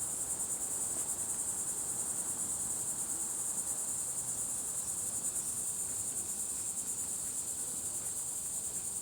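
Steady, high-pitched chorus of insects trilling, a fast even pulsing that goes on without a break.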